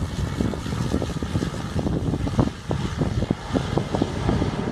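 A small aircraft landing on a very short runway: a steady rumble with irregular gusts of wind buffeting the microphone.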